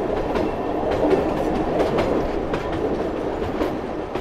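Train running on the rails, a steady rumble with irregular clickety-clack from the wheels over the rail joints. It slowly fades out toward the end.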